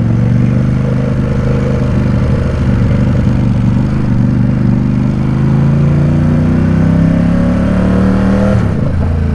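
Ducati Supersport 950 S L-twin engine and exhaust running while the bike is ridden at low speed. The revs climb slowly through the second half, then fall away abruptly near the end as the throttle is closed.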